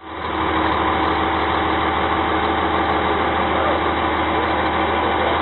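Diesel engine of heavy road construction machinery running at a steady idle, with a constant low hum and no revving.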